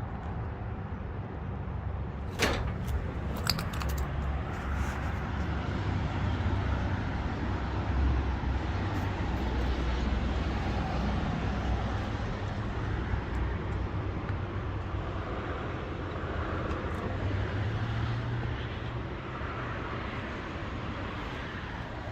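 Steady road-traffic noise, mostly low rumble, with a sharp click about two and a half seconds in and a few more clicks about a second later.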